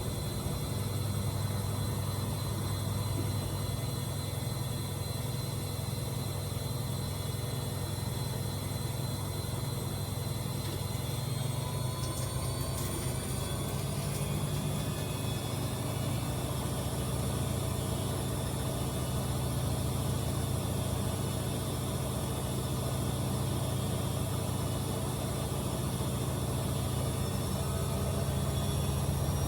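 AEG Öko_Lavamat 74780 washing machine running with a steady low hum. About eleven seconds in, a faint high whine rises in pitch and then holds.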